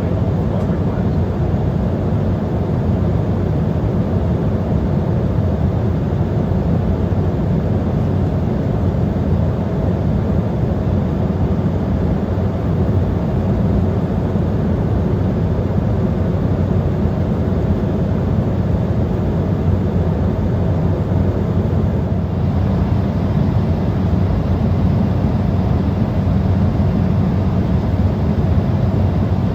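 Steady cabin noise of an Embraer 175 regional jet in cruise: an even, low rumble of engines and airflow.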